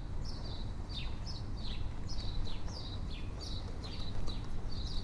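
Small birds chirping over and over, short calls that drop in pitch, about two or three a second, over a steady low outdoor rumble.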